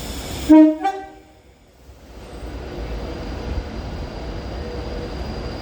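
Train horn sounding two short notes in quick succession, followed by the steady rumble of a train running on the rails.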